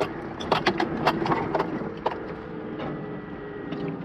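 A run of irregular sharp knocks and clicks, thickest in the first two seconds and then sparser, over a faint steady hum.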